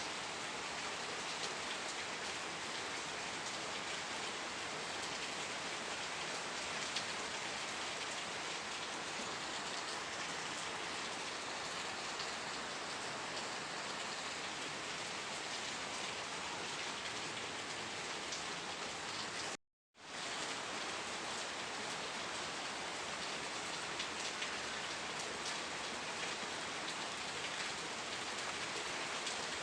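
Steady rain falling, a dense even hiss with faint individual drop ticks in it. The sound cuts out to silence for a fraction of a second about two-thirds of the way through, then resumes unchanged.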